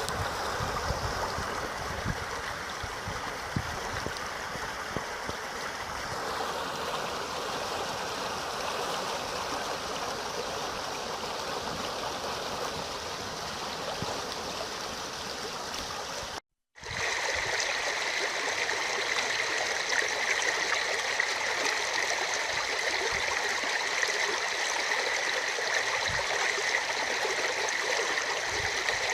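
A river swollen by heavy rain, its water rushing steadily. The sound cuts out for an instant a little past halfway and comes back with a sharper hiss.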